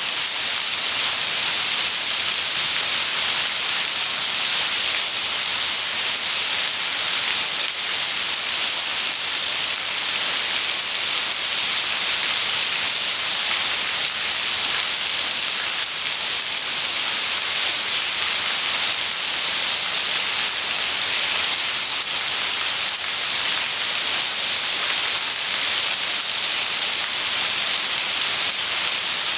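Heavy rain falling steadily: a loud, even hiss with no thunder in it.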